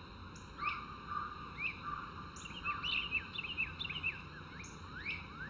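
Woodland birds chirping: short, quick chirps, a few a second, over a faint steady hiss. They come thicker from about halfway through.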